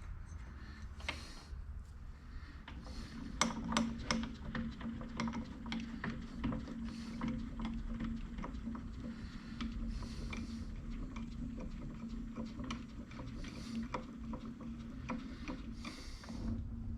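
Metal lathe cutting with a parting tool on a steel T-nut blank. A steady hum comes in a few seconds in and stops near the end, with many irregular light clicks over it.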